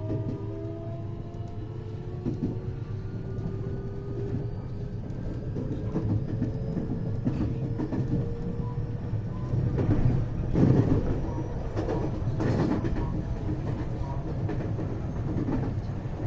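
Running sound inside the motor car of a 521-series electric multiple unit. The traction motors whine in several tones that climb slowly in pitch through the first half as the train accelerates, over a steady rumble of wheels on rail. A few seconds later the wheels clatter over rail joints.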